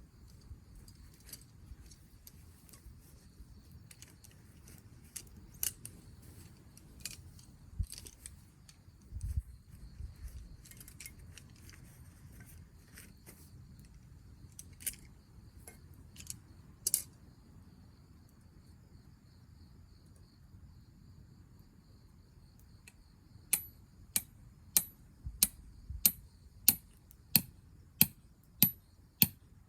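Sharp light clicks or taps, scattered and irregular at first, then from near the end a steady, evenly spaced run of about three clicks every two seconds.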